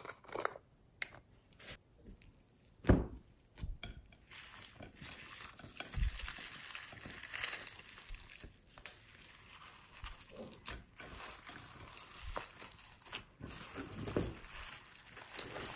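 Slime being squeezed and worked by hand: a few soft thuds in the first few seconds, then sticky crackling with many small pops.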